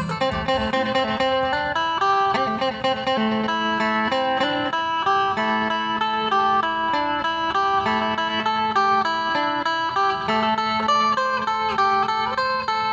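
Phin, the Isan Thai plucked lute, playing a quick melody of plucked notes over a recurring low held note.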